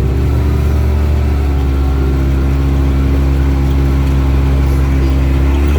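Vehicle engine running at a steady speed while driving, with a strong low hum.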